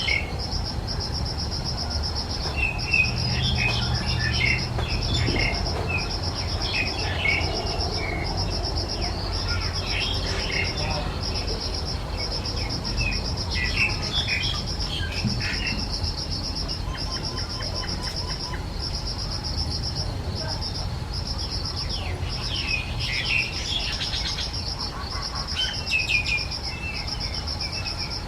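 An insect trills steadily in even, rapid pulses while bursts of high-pitched bird chirps come and go every few seconds, over a low, steady rumble.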